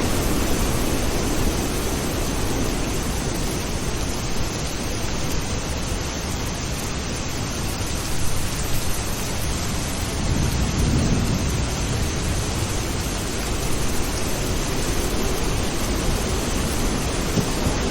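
Steady rain falling, with low rolls of distant thunder that swell and fade, the strongest about ten seconds in.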